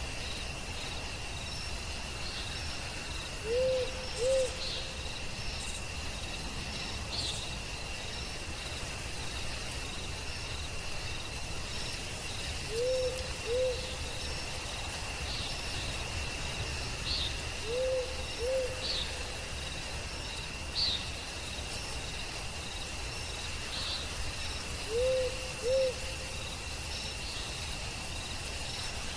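Forest night ambience: an owl hooting in pairs of short notes, four times, over a steady high-pitched insect trill, with short high chirps now and then.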